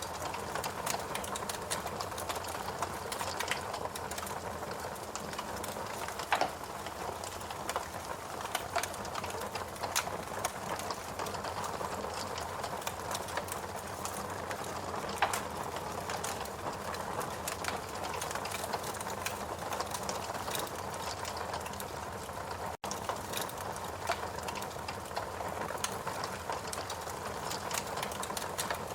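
Fireplace crackling, with scattered sharp pops and clicks over a steady hum. The sound cuts out for an instant about two-thirds of the way through.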